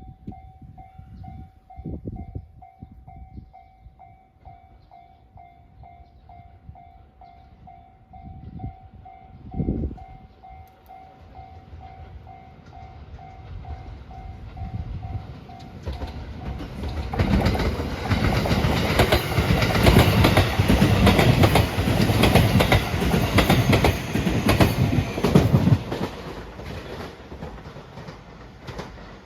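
Japanese level-crossing warning bell ringing in a steady rapid rhythm of about two strikes a second, stopping about sixteen seconds in. A train then passes over the crossing, with wheels clattering on the rails for about nine seconds before it fades.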